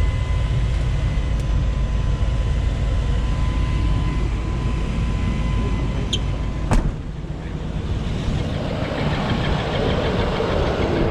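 Tow truck engine running with a steady rumble and a thin steady whine over it; about seven seconds in a sharp click, after which the whine is gone and a lower, rougher running noise with more hiss carries on.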